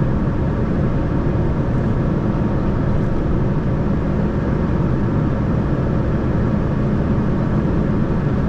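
Heavy tractor-trailer's diesel engine and tyre noise, a steady low drone while cruising down a descending curve.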